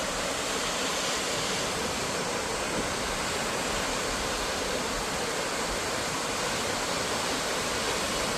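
Salt Creek Falls, a large waterfall, roaring steadily: an even rushing of falling water with no breaks.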